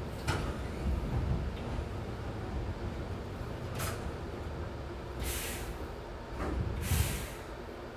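Inside a Hankyu 6300 series train car at a station stop: a low rumble with four short hisses of compressed air from the brake system.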